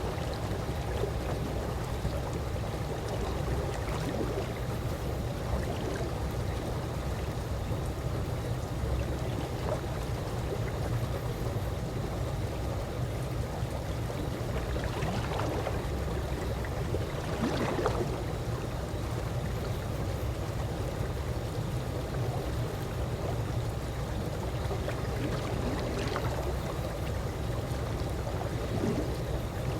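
Calm swimming-pool water lapping and gurgling steadily, with a few brief louder gurgles, the clearest a little past halfway.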